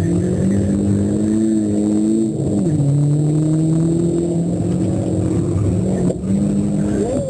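Volkswagen Golf Mk4 GTI engine heard from inside the cabin, driven hard: the revs climb, fall back about two and a half seconds in, then climb again, with another short dip near the end.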